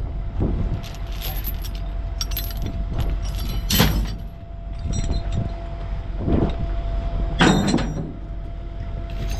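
Steel tie-down chains clanking and jingling as they are handled and tossed, in a string of separate clanks with the loudest about four seconds in and again near the end, over a steady low rumble.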